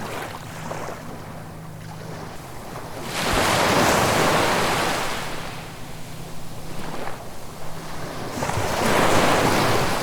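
Sea waves breaking on the shore: two waves crash and wash in, one about three seconds in and lasting a few seconds, another near the end, with quieter surf between them.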